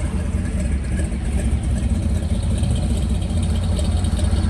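Classic car engine idling steadily as the car rolls out without being revved: a low, even engine sound with no throttle blips.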